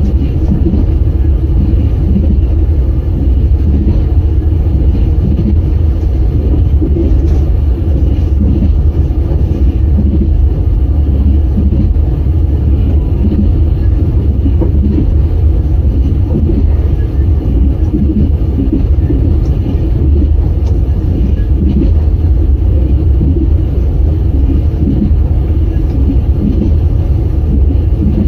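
Passenger train running at speed: a steady, heavy low rumble from the wheels on the rails, with a knock recurring about once a second.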